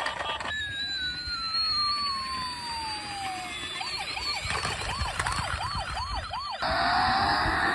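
Siren sounds of a toy emergency vehicle: a long tone falling over about three seconds, then a fast warbling wail rising and falling about three times a second. Near the end it cuts suddenly to a louder hiss with a slowly rising whine.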